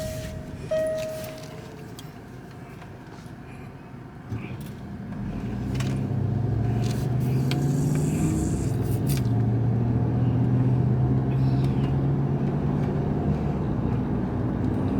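A car's dashboard warning chime repeats briefly at the start. About five seconds in, the car's engine comes up to a steady running hum.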